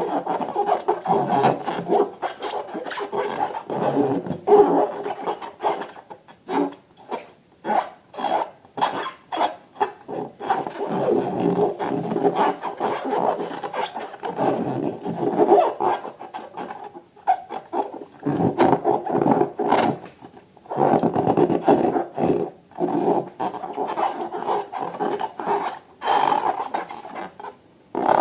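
Rubber balloons being rubbed and squeezed by hand, squeaking and rasping in short, uneven bursts.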